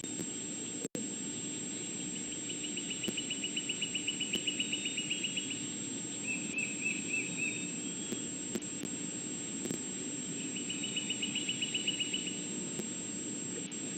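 A high, rapid trill of evenly spaced pulses, about eight a second, from a calling animal. It comes in three bouts of one to three seconds each, over a steady hum.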